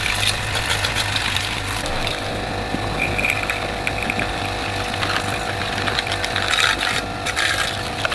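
A steady low mechanical hum with irregular metallic clicking and rattling.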